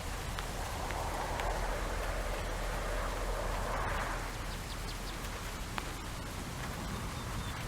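Steady rain falling, with scattered sharper drops, swelling louder for a few seconds in the first half.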